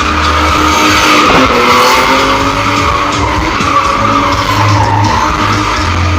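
Car drifting: tyres squealing with a wavering high screech over an engine revving up and down.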